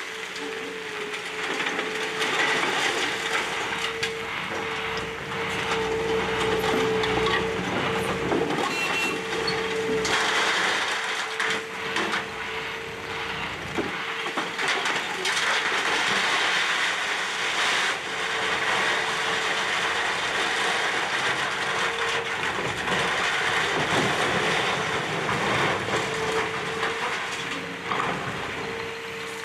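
Excavator tearing down a building: its engine and hydraulics run under load with continuous crunching, cracking and scraping of breaking debris, and a steady whine that comes and goes.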